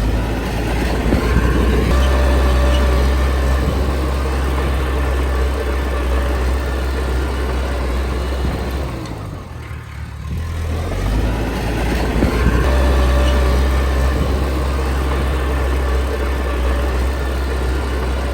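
Diesel engine of a Komatsu D20P bulldozer working hard under load while pushing soil. It eases off for a couple of seconds about halfway through, then loads up again for a second push.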